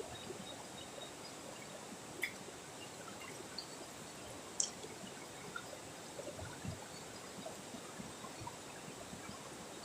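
Steady wash of running water, with scattered faint ticks and a few soft low knocks.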